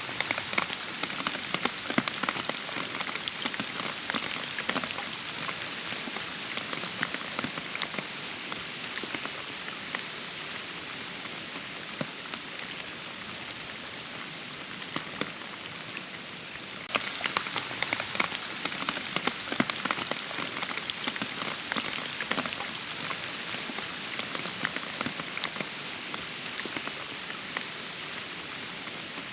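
Steady rain falling, with many separate drops ticking sharply over a dense hiss; it eases a little a third of the way in and grows heavier again just past halfway.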